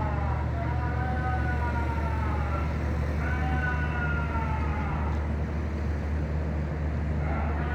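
Dog howling: long calls of about two seconds each, rising then falling in pitch, with short pauses between them, over a steady low hum.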